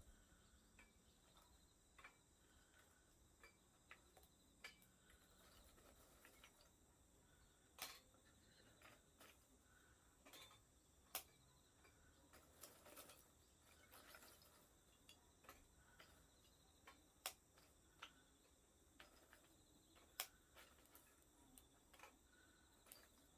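Small wood fire in a compact wood stove crackling faintly, with sharp, irregular pops about once a second.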